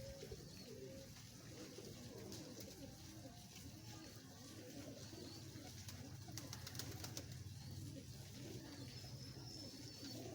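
Domestic pigeons cooing, several calls overlapping one another without a break, over a steady low hum. There are a few brief clicks a little past the middle.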